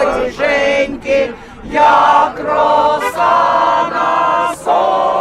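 A crowd of voices singing together, holding long notes with short breaks between phrases.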